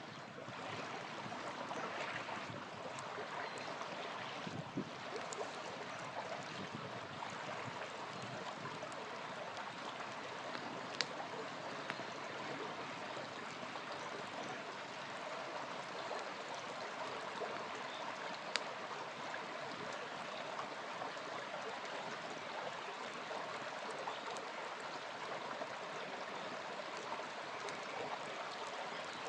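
Small river flowing steadily, with an occasional sharp pop from a crackling campfire, two of them standing out.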